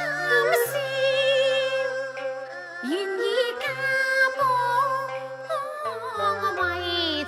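Cantonese opera music: the accompanying ensemble playing a wavering melodic line over steady low notes, with a couple of sharp percussion strokes near the start.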